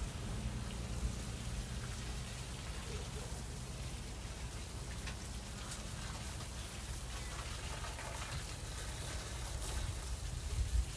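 Water from a garden hose pattering steadily onto plants and soil, with a low rumble underneath.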